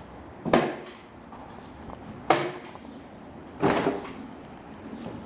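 Three sharp knocks about a second and a half apart, each with a brief ringing tail.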